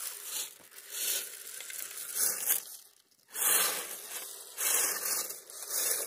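Crusted, icy snow crunching in repeated bursts, roughly once a second.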